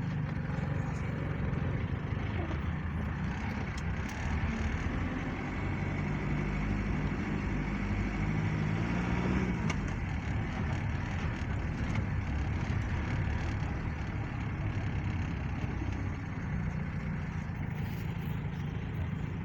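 Vehicle engine and road noise while driving: a steady low rumble, with the engine note rising and falling in the middle.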